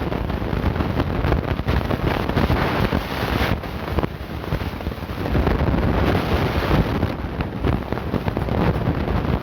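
Wind buffeting the microphone: a loud, rumbling rush of noise that swells and dips.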